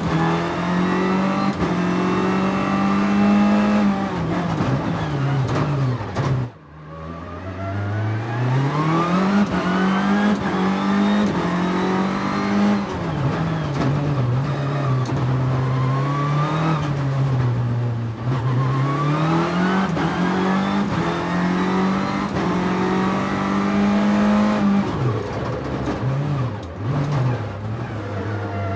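Nissan 300ZX's V6 engine under hard driving, its pitch climbing and falling again and again as it accelerates and lifts off between corners, with a brief sudden drop in sound about six seconds in.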